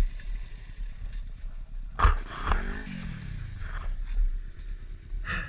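Motorcycle sounds with a steady wind rumble on the microphone: a sharp clatter about two seconds in, then an engine note falling in pitch over about a second.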